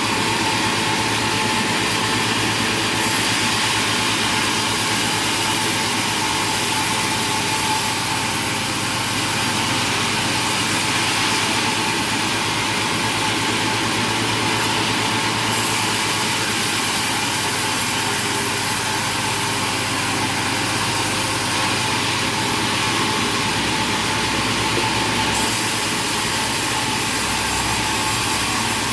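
Loud, steady machine noise of sawmill machinery running, a continuous mechanical din with a low hum underneath.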